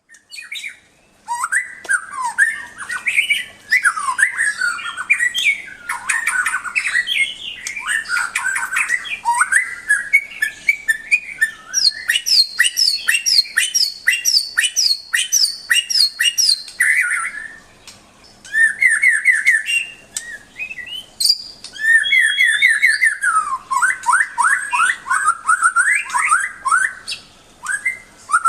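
White-rumped shama (murai batu) singing a long, varied song of quick whistled phrases. A fast run of repeated notes comes in the middle, with a short pause about two-thirds of the way through.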